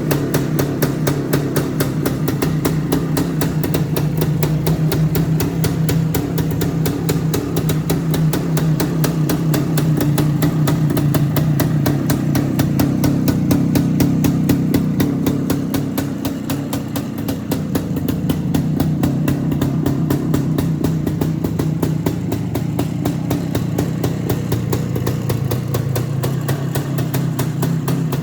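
Suzuki ER185 motorcycle engine running at a steady idle, with a quick even pulse; the revs rise slightly about halfway through, then settle back.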